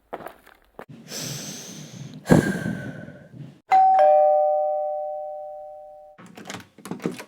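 Doorbell chime ringing a two-note 'ding-dong', a higher tone then a lower one, both ringing on for about two seconds before cutting off. A rushing noise and a sharp knock come before it.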